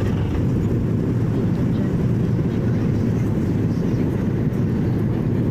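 Boeing 737 MAX jet engines and airflow heard from inside the passenger cabin during the takeoff run: a loud, steady, dense low rumble.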